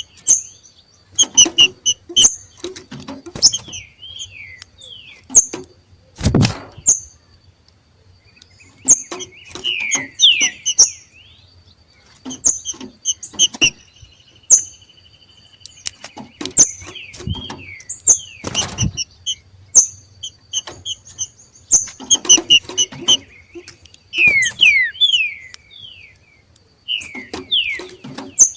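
Green-winged saltators (trinca-ferro) giving their 'macheado' call: clusters of sharp clicking chip notes and short downward-sliding whistles, repeated every couple of seconds, with one longer held whistle about halfway. Two loud thumps, about a third of the way in and again about two-thirds in.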